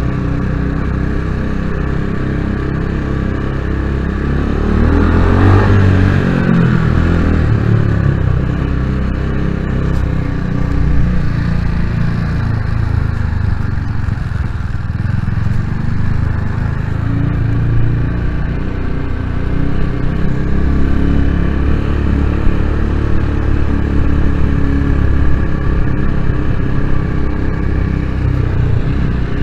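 Vitacci GTX 250 EFI motorcycle's fuel-injected 250 cc engine running as it is ridden through a parking garage. About five seconds in it revs up, rising in pitch, then runs fairly steadily.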